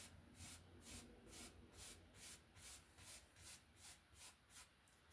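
Faint, even swishing of a 1-inch bristle brush on wet oil-painted canvas, about three quick strokes a second, as water is brushed in.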